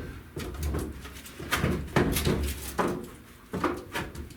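Rear speaker deck plate being pushed and worked into place under a car's back window: irregular scraping and knocking.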